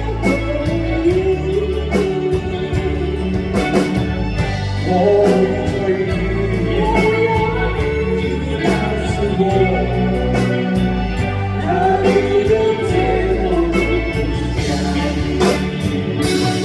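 A pop ballad sung live: a melodic vocal line over instrumental accompaniment with a steady bass.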